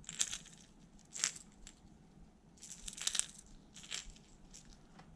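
Faint, scattered light clicks and short rattling rustles as a hard plastic jerkbait lure and its packaging are handled, with a cluster of clicks near the middle.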